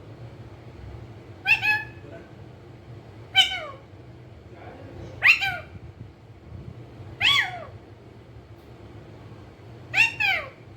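Five short meow-like calls, about two seconds apart, each sliding down in pitch; the first and last come as quick doubles.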